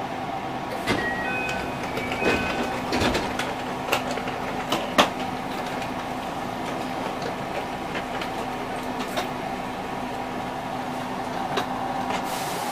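Inside a train carriage: a steady mechanical hum, with scattered clicks and knocks in the first five seconds, the loudest about five seconds in, and a few short high tones about one to two and a half seconds in.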